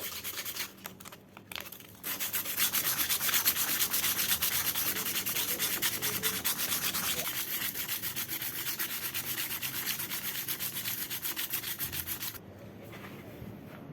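Sandpaper being rubbed back and forth in quick strokes, about three a second, while restoring a sledgehammer. It pauses briefly about a second in, then resumes and stops suddenly near the end.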